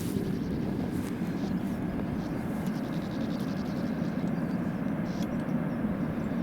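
Wind buffeting the microphone outdoors: a steady, low, rumbling noise without any clear tone.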